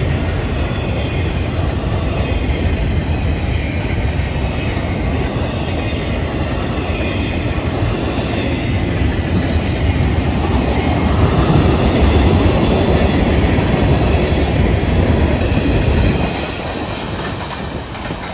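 Freight cars of a Florida East Coast Railway train rolling past: double-stack container well cars and tank cars, their steel wheels rumbling steadily on the rails. The sound drops off about sixteen seconds in as the cars move away.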